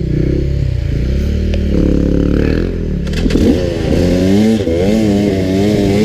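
Dirt bike engine revving, the throttle worked on and off so the pitch rises and falls about once a second in the second half, over a steadier lower engine note.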